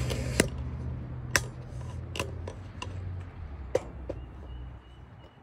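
A camera being handled and set in place: a handful of sharp, isolated clicks and taps over a low hum that fades out near the end.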